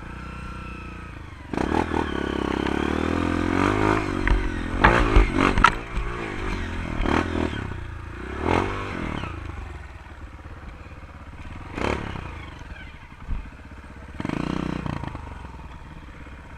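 Honda CRF230 trail bike's single-cylinder four-stroke engine, running low at first, then revved hard with its pitch rising and falling. A few seconds later come several sharp knocks and clatters, followed by further short blips of the throttle.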